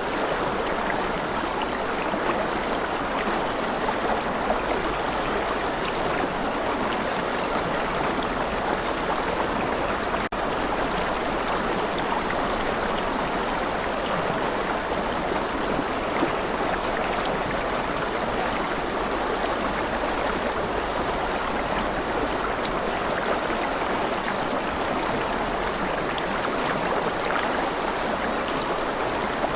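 River water rushing in a steady, even flow, with a momentary dropout about ten seconds in.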